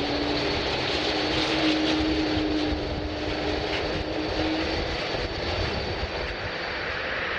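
Airliner jet engines running, a steady noise with a low hum that rises slightly and fades out about two-thirds of the way through, over a steady high whine.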